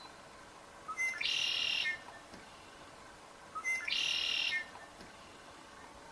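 A songbird singing the same short song twice, a few seconds apart: each time a couple of quick notes leading into a buzzy trill of under a second.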